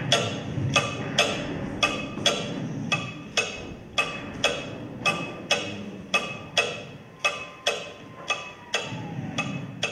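Steady clock-like ticking of a wood-block sound, about two and a half strikes a second, each with a short ringing tail, over a low rumble; near the end a thin tone falls in pitch.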